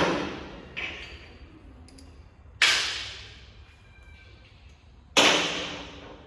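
Three sharp impacts about two and a half seconds apart, each ringing away over about a second, with a weaker knock just after the first.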